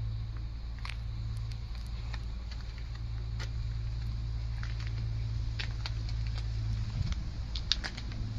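A Beiben 6x6 truck's diesel engine idling with a steady low hum, with scattered light clicks and ticks over it and a few close together near the end.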